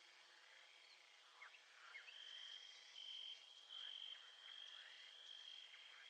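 Faint nature ambience of calling insects: a high, steady trill that comes and goes, strongest from about two seconds in, with scattered short chirps.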